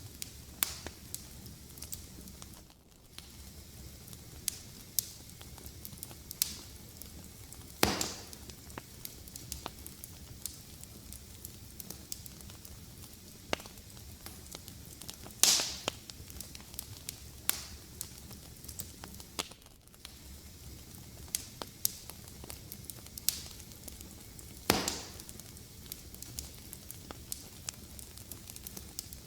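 Wood fire crackling: a soft steady hiss with frequent small snaps, and three much louder pops spread through, roughly seven to nine seconds apart.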